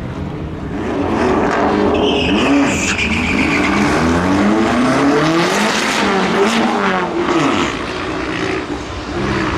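Drag cars launching and accelerating hard down the strip. The engine notes climb in pitch again and again through the gear changes, with a brief high squeal near the start.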